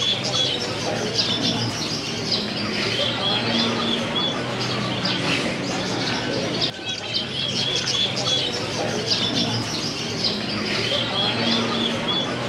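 Many caged birds calling together: a steady din of rapid high chirps and tweets over low, drawn-out cooing notes.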